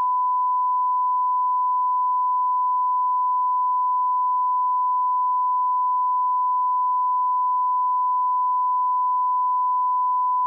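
Audio line-up test tone: a steady pure sine-wave beep at about 1 kHz, set at −18 dB reference level, held unbroken at constant pitch and loudness.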